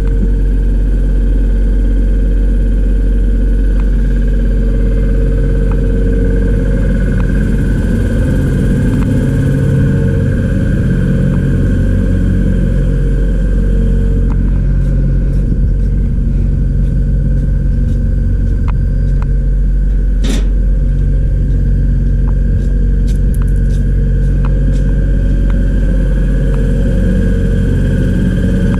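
A motor running steadily with a loud low hum, with light clicks scattered throughout and one sharp click about 20 seconds in.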